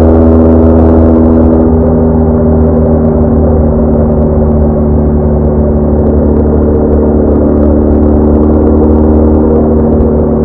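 BMW R1200R flat-twin motorcycle engine running at a steady cruise under way, heard from on the bike. It eases off slightly about a second and a half in, then holds an even note.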